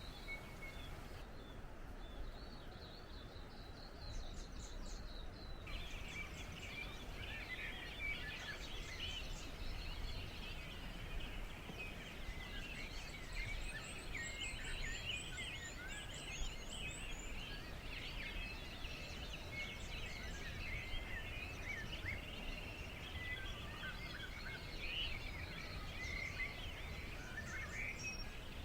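Several small birds chirping and singing over one another, a dense chorus of short high notes over a steady low background rumble. The chorus is thinner for a few seconds near the start, then fills in.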